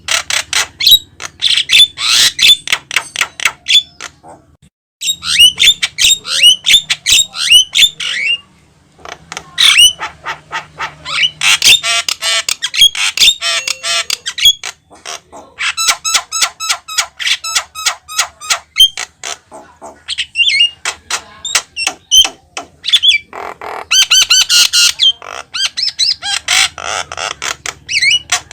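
Javan myna singing in long, rapid runs of sharp chattering notes and harsh squawks, loud and high-pitched. The runs come in bursts of a few seconds, broken by short pauses.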